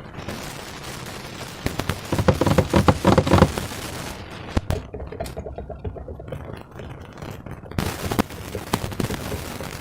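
Slime being squished and worked by hand, a dense run of wet crackles and small pops. It is loudest from about two to three and a half seconds in.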